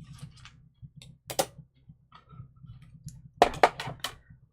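Light clicks and taps from thin metal cutting dies and cardstock being handled, with a louder click about a second and a half in and a quick run of sharp clicks near the end.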